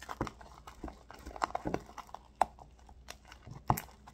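A spoon stirring sticky, half-activated slime in a bowl: irregular wet smacks and clicks of the spoon against the bowl, the loudest about three and a half seconds in.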